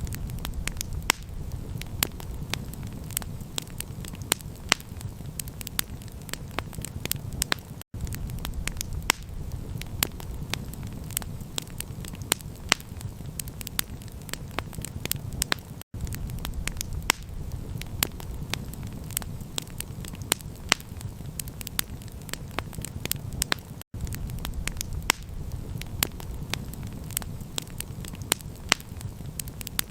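Campfire crackling: dense, irregular pops and snaps of burning wood over a steady low rumble. The sound cuts out for an instant about every eight seconds.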